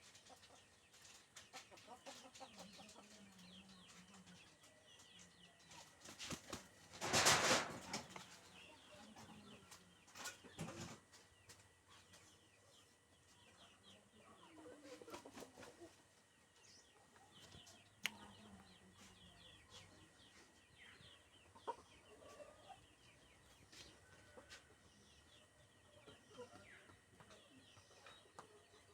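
Birds chirping and clucking, with many small high chirps throughout and lower calls now and then. A loud, noisy flutter comes about seven seconds in, and a shorter one near eleven seconds.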